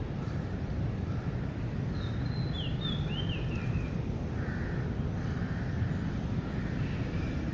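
Outdoor ambience: a steady low rumble, with a bird calling a quick series of short, high, sliding chirps about two seconds in and a fainter, lower call around five seconds in.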